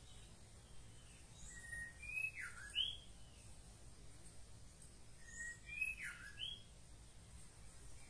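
A bird's whistled call phrase, given twice about four seconds apart. Each phrase is a short steady note, then a higher note that swoops down and back up, with faint high chirps around it.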